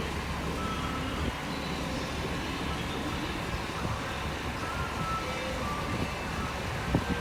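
New York City subway 2 train pulling into the station: a steady rumble of wheels on the rails, with faint high squealing tones coming and going.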